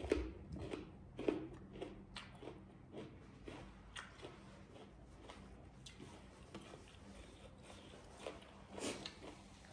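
Chewing a mouthful of raw bitter melon: short crunches and wet mouth clicks, close together at first and thinning out, with a louder crunch a little before the end.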